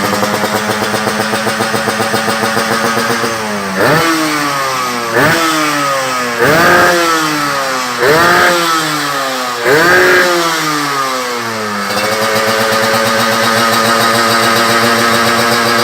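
Yamaha RX-King two-stroke single-cylinder motorcycle engine running through an aftermarket racing exhaust. It idles, is revved in five quick blips that each rise and fall in pitch, then settles back to a steady idle.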